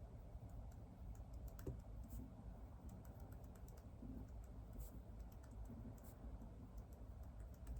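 Faint typing on a computer keyboard: soft, irregular key clicks, several a second.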